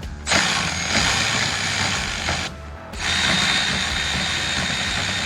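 Power tool running in two long bursts, about two and three seconds, with a short pause between them, driving in the bolts of a starter motor on a small-block Ford V8.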